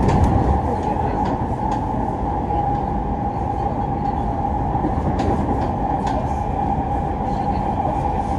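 Sotetsu 10000 series electric train running at speed, heard from inside the car: a steady whine from the Mitsubishi IGBT-VVVF traction equipment over low wheel-and-rail rumble, with scattered clicks from the track. A louder low thump comes in the first half second as the train goes over a level crossing.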